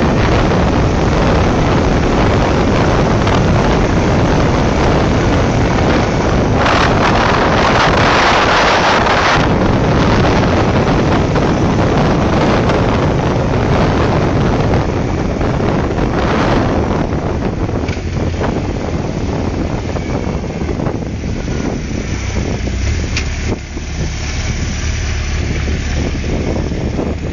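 BMW motorcycle with sidecar on the move, its engine running under heavy wind buffeting on the microphone. The wind noise is strongest about seven to nine seconds in and eases in the last third, leaving a steadier low engine hum as the bike slows.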